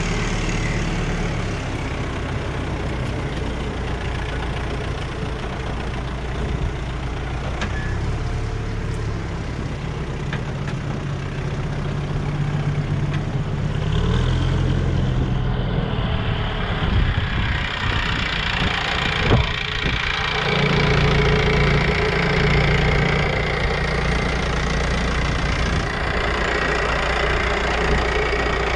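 Farm tractor engine running steadily, its note shifting about halfway through, with one sharp knock shortly before a second change.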